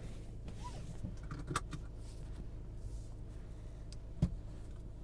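The car's 2.0-litre turbocharged four-cylinder engine idling as a steady low hum inside the cabin, with a few light clicks about one and a half seconds in and a sharp knock a little after four seconds.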